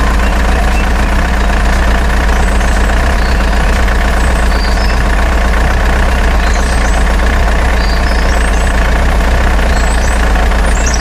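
Heavy truck engine running steadily with a deep, even rumble. Faint short high chirps come and go over it.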